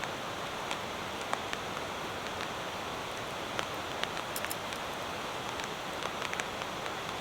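Steady rain falling, with scattered sharp ticks of drops or small pops through it.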